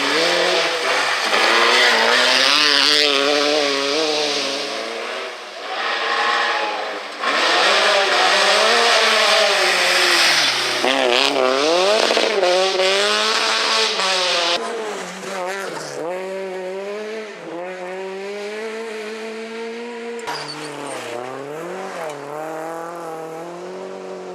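Rally cars driven hard, engines revving up and falling back repeatedly through gear changes and braking, with some tyre squeal. The sound jumps abruptly several times from one car to another.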